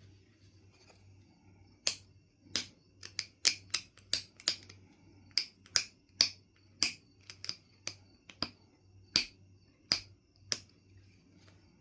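Knife River flint being knapped: a run of about twenty sharp clicks as flakes snap off the stone, starting about two seconds in, coming irregularly at up to three a second, and stopping shortly before the end.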